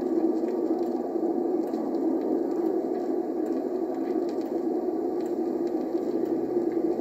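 Record playback of a 1957 field recording: a steady rumble of a passing train, Norfolk and Western Class J steam locomotive No. 603 and its cars, with vinyl surface crackle ticking over it.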